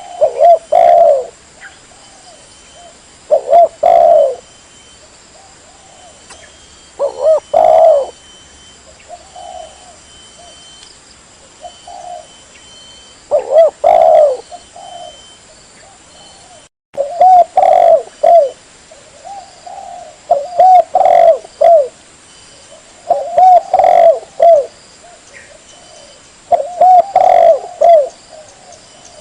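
Spotted dove (tekukur) cooing: repeated low, rounded coo phrases in groups, with short pauses between them. This is a recorded lure call played to draw doves in.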